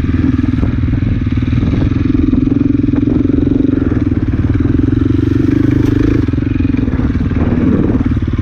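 Enduro dirt bike engine running under throttle, holding a steady pitch for about six seconds. It then eases off, with a brief dip and rise in revs near the end.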